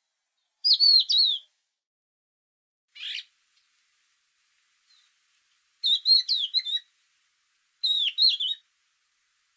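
A songbird singing short, quick warbling phrases, three full phrases and one softer brief call, with clean silence between them.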